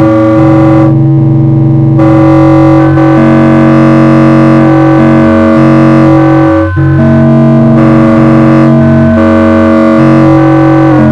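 Loud, distorted, algorithmically generated synthesizer tones: a dense cluster of held pitches that shifts in steps every second or two, dropping out for an instant about two-thirds of the way through.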